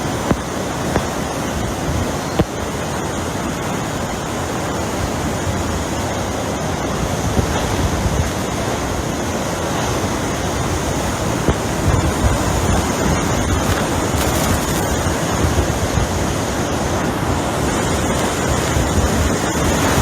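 A steady, dense rush of hurricane-force wind, with gusts buffeting the microphone. It grows a little louder in the second half.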